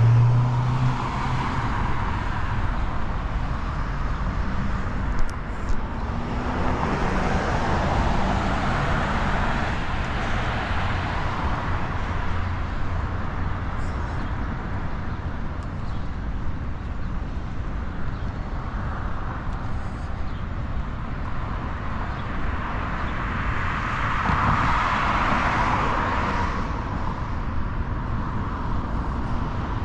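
Downtown street traffic noise with a steady background hum, swelling twice as vehicles pass.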